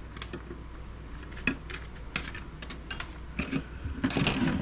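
Small plastic and metal computer parts clicking and knocking as they are handled and sorted, with a busier clatter about four seconds in.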